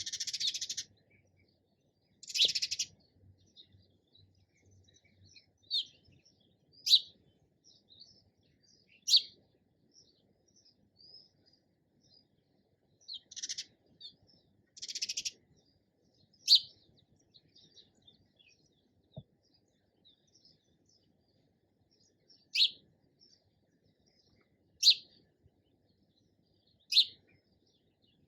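Sparrow chirping: sharp single chirps every second or two, with a few longer buzzy chatters near the start and about halfway through.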